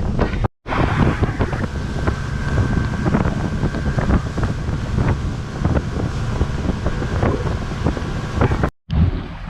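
Heavy wind buffeting the microphone over a boat's running engine, with many small knocks. The sound drops out twice for a moment, about half a second in and near the end.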